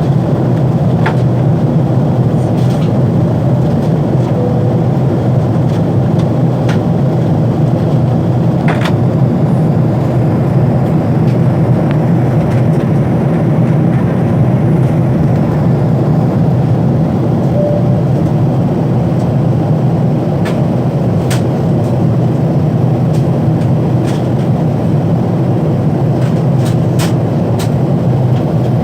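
Steady cabin noise of a Boeing 777-300ER in flight: a loud, even rumble of its GE90 engines and the airflow over the fuselage, with a few faint clicks.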